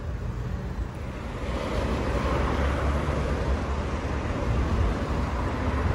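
Road traffic on a busy city avenue: a low engine rumble and tyre noise that swell about two seconds in and hold steady.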